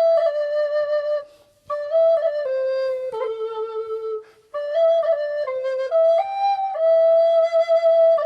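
Solo recorder playing a melody unaccompanied, one clear held note after another, with two short breaks for breath: one about a second in and one near the middle.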